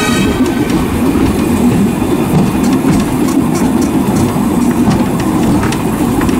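The Diaz Express running along the line, heard from on board: a steady loud rumble of wheels on rail, with a few sharp clicks from the track.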